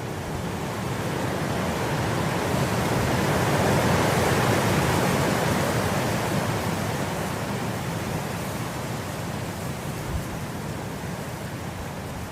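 Wind blowing through grass, one gust swelling to its strongest about four seconds in and then slowly dying back.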